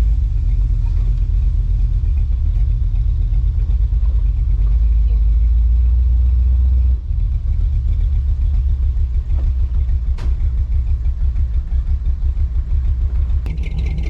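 Car engine rumbling steadily, then dropping about seven seconds in to a lower, pulsing idle.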